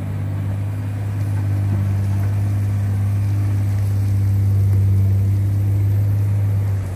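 John Deere 670 GP motor grader's diesel engine running steadily under a constant note, growing slowly louder.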